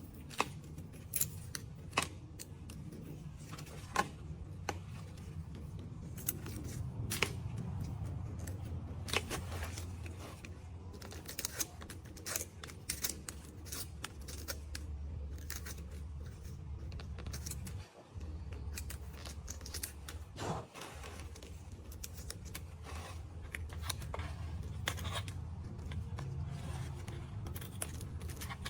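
Irregular small, sharp clicks and snips, spaced unevenly, over a steady low hum.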